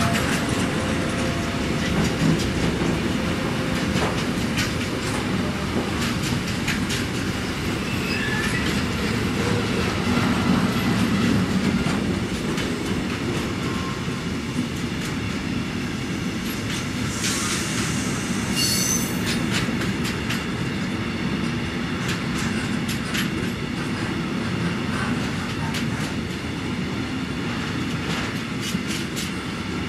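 Long intermodal freight train of container and tank-container wagons rolling past: a steady rumble of wagon wheels on the rails, with scattered sharp clicks and a brief high-pitched squeal a little past halfway.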